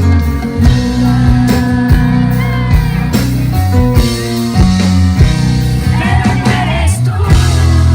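Band playing a rock song with a sung vocal line over steady bass and drums.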